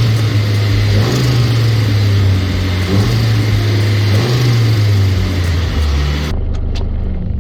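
A car engine running loudly, its low note shifting up and down a little; about six seconds in the sound changes abruptly to a steadier, slightly quieter running.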